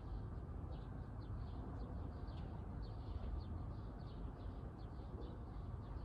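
Small birds chirping, short high calls coming several times a second, over a steady low background rumble.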